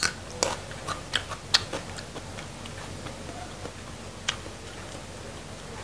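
Biting off and chewing a raw young yellow bamboo stalk: a quick run of crisp cracks and crunches in the first two seconds, then sparser chewing with one more sharp crack about four seconds in.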